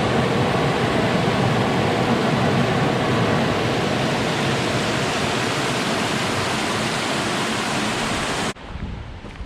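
Steady rush of water falling over a small waterfall in a rocky stream. It cuts off abruptly near the end, leaving much quieter outdoor sound.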